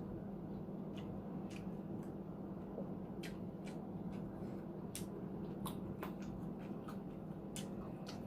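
Close-miked eating sounds: scattered, irregular wet mouth clicks and smacks of chewing, over a steady low hum.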